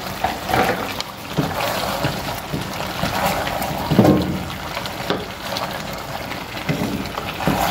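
Chicken, tomatoes and potato chunks frying in oil in a metal pot while a spoon stirs them: a steady sizzle with scattered scrapes and knocks of the spoon against the pot, the loudest knock about four seconds in.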